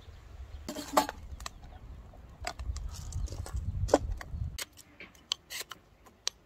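A series of sharp, irregular clicks and knocks over a low rumble that stops about four and a half seconds in.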